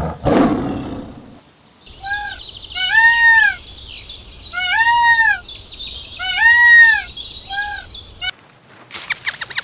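The tail of a big cat's roar in the first second, then birds calling. A clear arching call is repeated five times over a chorus of high chirps and trills. Near the end comes a rapid run of clicks.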